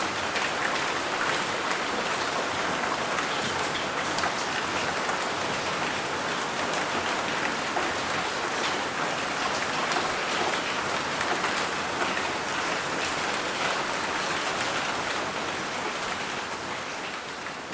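Steady rain with many small drops pattering, beginning to fade out near the end.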